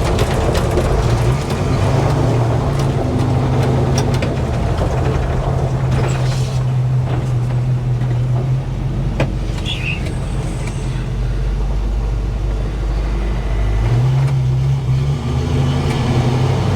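1970 GMC K10 pickup truck driving, its engine and exhaust running steadily; the engine note drops about eight and a half seconds in and picks up again about fourteen seconds in.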